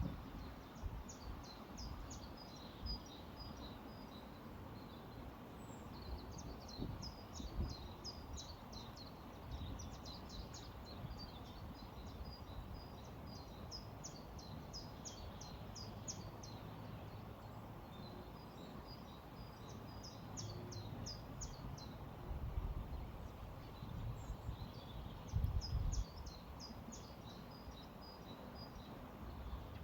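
Small birds chirping in repeated quick series of short high notes over the steady rush of a flowing river, with a few low rumbles near the end.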